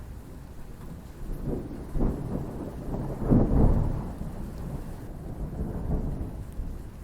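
Thunder rumbling over steady rain: the roll builds from about a second and a half in, is loudest just past the middle, then slowly fades away.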